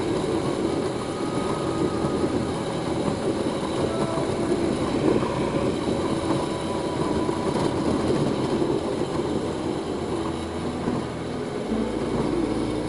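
Motorcycle riding along, with its engine running and steady wind noise. The bike is a BMW R1250GS with a boxer-twin engine.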